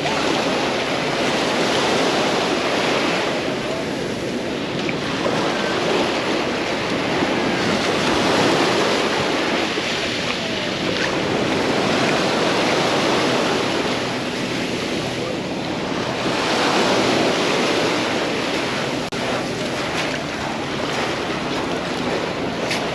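Sea waves breaking and washing up the beach, the rush of surf swelling and easing every few seconds, with some wind on the microphone.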